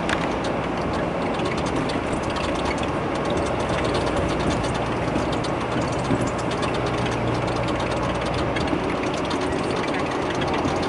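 Steady low rumble with dense, irregular rattling clicks, from riding in a moving vehicle beside a long freight train of double-stacked containers.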